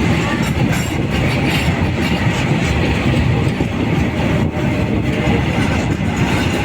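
Empty BTPN oil tank wagons of a freight train rolling past, their steel wheels clattering and rumbling steadily on the rails.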